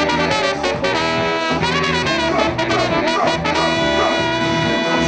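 Live Latin band music: a brass section playing over a percussion groove, with no singing.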